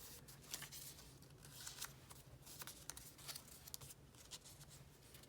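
Faint rustling and crinkling of paper strips being folded back and forth over each other, in many short, scattered crackles.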